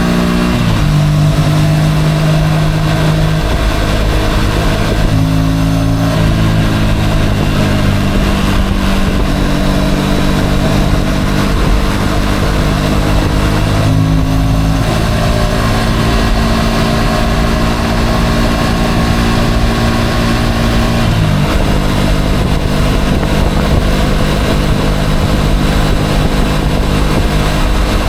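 Motorcycle engine running steadily while riding, its pitch holding level and then stepping to a new speed a few times, over a constant low rumble of road and wind noise.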